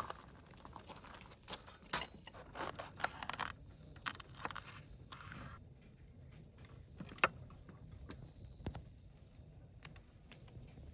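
Handling noise: rustling and crinkling with many light clicks and knocks, densest in the first few seconds, then a few isolated sharp clicks.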